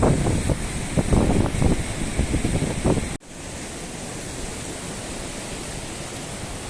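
Gusty storm wind buffeting the microphone for about three seconds. After an abrupt cut, a steady, even hiss of heavy rain.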